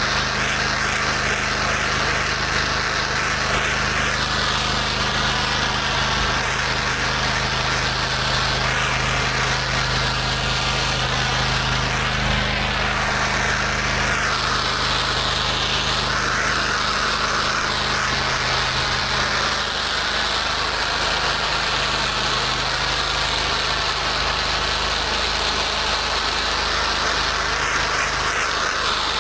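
Gas-engine pressure washer running steadily, with a constant hiss of high-pressure water spray over the engine's hum. The engine note shifts slightly about two-thirds of the way through.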